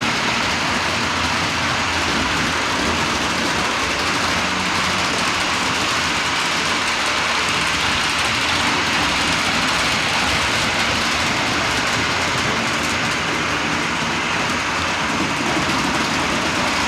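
HO-scale model train running on the layout: a steady rushing noise that holds an even level throughout.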